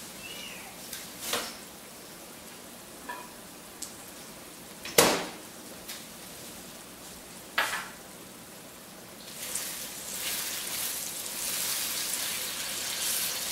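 Sliced plantains frying in an electric wok: a soft sizzle that grows denser in the last few seconds as they are stirred with a wooden spatula. A few sharp kitchen knocks and clunks sound over it, the loudest about five seconds in.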